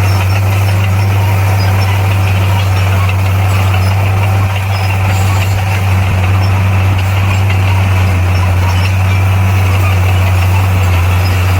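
Bulldozer's diesel engine running steadily at a constant low pitch, with no change in speed.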